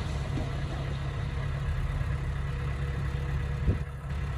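Heavy diesel engine running steadily at low revs, with a single short knock near the end.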